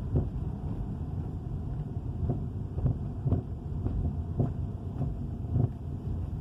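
Rattling, knocking noise from a 2013 Dodge Charger Hemi on the move: short knocks about once or twice a second at uneven spacing over a steady low rumble from the road and engine. The cause is unknown to the owner.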